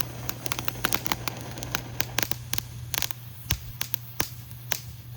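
A small consumer firework crackling: a rapid, irregular run of sharp little pops, thickest for the first three seconds or so and then thinning out.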